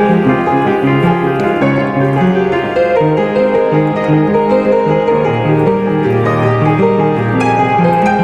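Solo piano music playing a steady run of notes.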